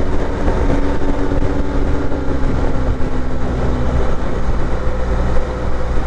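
Motorcycle at steady highway speed: a constant engine drone under a rush of wind and road noise.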